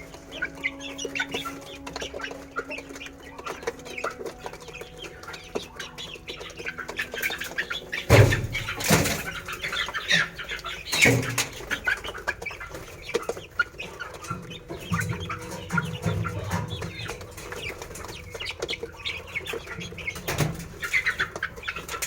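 Chickens clucking and calling throughout, with three loud sudden bursts, a few seconds apart, about a third, a half and nine-tenths of the way through.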